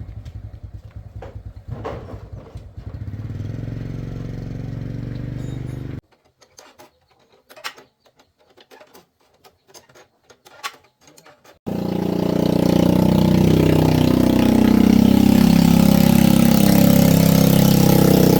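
Motorcycle engine running, then cutting off abruptly about six seconds in. A few scattered clicks and knocks follow, then an engine runs again, louder, from about twelve seconds in.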